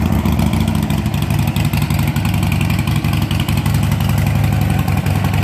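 Harley-Davidson Sportster 1200's Evolution V-twin idling steadily through aftermarket Python exhaust pipes.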